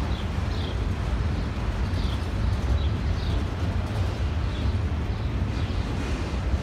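Freight train of autorack cars rolling past at street level: a steady low rumble from the wheels on the rails, with faint short high squeaks repeating about every half second to second.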